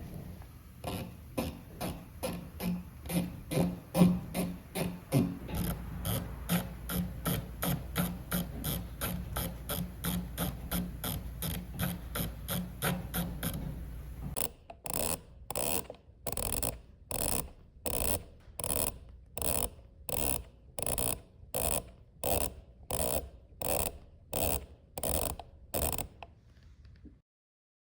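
Evenly spaced ratchet clicks from the cutter-depth adjustment dial of a Fuji FRC-200-1 milling machine being turned. The clicks come about three a second over a low hum at first, then slow to about one and a half a second about halfway through, and stop near the end.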